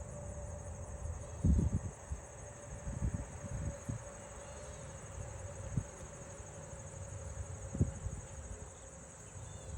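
Steady high-pitched insect chirring, cricket-like, with a few short low thumps scattered through it.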